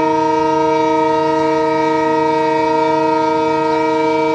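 Railway locomotive horn sounding one long, loud, steady blast, with several pitches sounding together.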